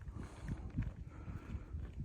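Footsteps walking along a dirt trail, irregular soft thuds a few times a second, with a low rumble of wind on the microphone.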